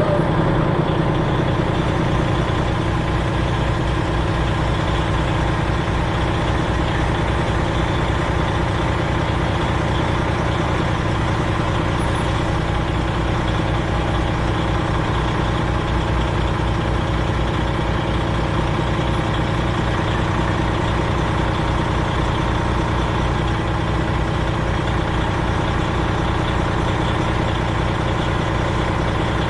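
Freightliner Classic XL semi truck's diesel engine running steadily.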